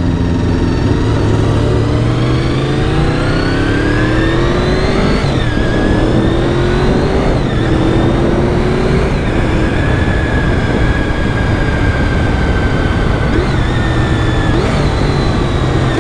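Honda VFR750's V4 engine accelerating up through the gears. The pitch climbs and drops back at each upshift, about five, seven and nine seconds in, then holds at a steady cruise, with a steady rush of noise underneath.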